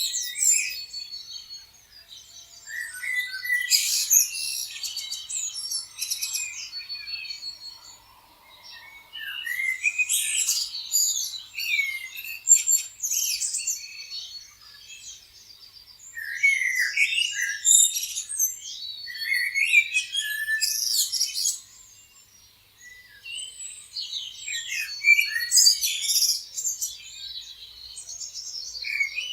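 Several birds chirping and singing at once, a dense mix of high chirps, trills and whistles that comes in bouts with brief lulls every several seconds.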